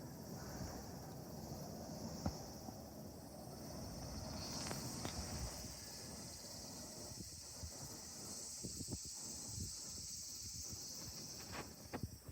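A steady, high-pitched chorus of insects, typical of crickets, that grows louder about four and a half seconds in, over a low rumble, with a few sharp clicks near the end.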